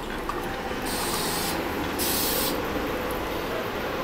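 SEPTA Regional Rail electric train rolling slowly alongside the platform with a steady rumble. Two short bursts of hissing air come about a second in and again, louder, about two seconds in.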